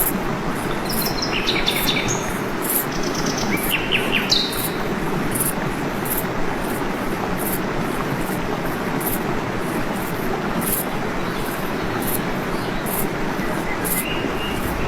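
Waterfall with a steady rush of falling water. Birds chirp briefly in the first few seconds, and an insect buzzes in short high pulses about twice a second throughout.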